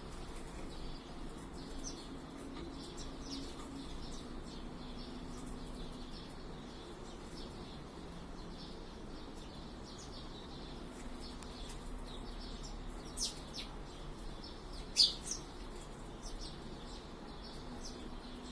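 Small birds chirping in many short, quick calls as they squabble, with two louder, sharp chirps toward the end. A faint steady low hum runs underneath.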